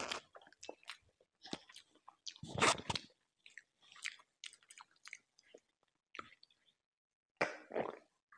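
A person chewing chicken and rice, with scattered wet mouth clicks and smacks. A louder burst comes about two and a half seconds in, and another cluster near the end.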